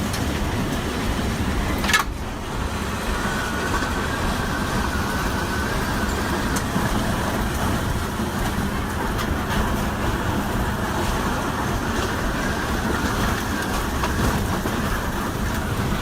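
Tornado winds: a loud, steady rush of wind noise, with a sharp crack about two seconds in.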